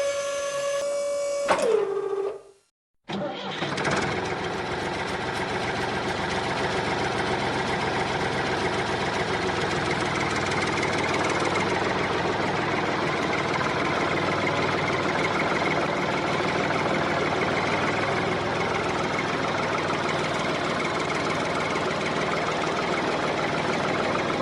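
The small motor of a homemade miniature tractor. A steady whine drops in pitch and stops about two and a half seconds in; after a brief silence the motor runs steadily with a rattly, mechanical sound.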